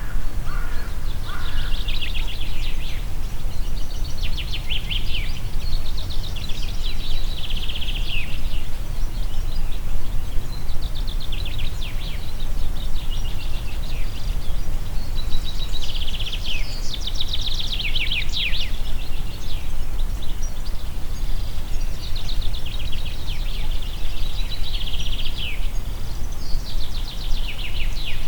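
Songbirds singing short, rapid trilled phrases, one every two to three seconds, over a steady low rumble of wind.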